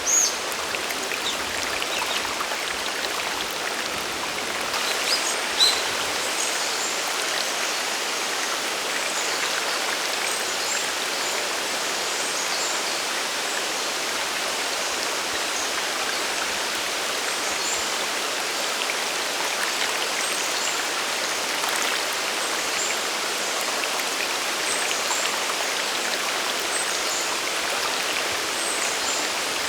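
Water of a mountain waterfall and stream rushing steadily. Near the start and again about five and a half seconds in there is a brief sharp high sound.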